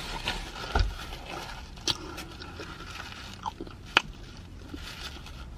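A person chewing a mouthful of thick, syrup-covered waffle close to the microphone: soft wet mouth clicks and smacks, the sharpest about two seconds and four seconds in, over a low steady hum.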